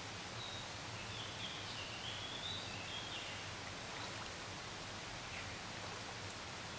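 Small birds chirping and twittering in short high phrases during the first half, over a steady faint hiss of pond-side ambience.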